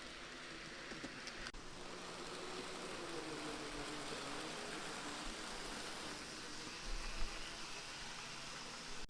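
Model train running on its track: a steady hiss and rumble from the wheels, with a faint wavering hum from the small electric motor, and a couple of light knocks near the end.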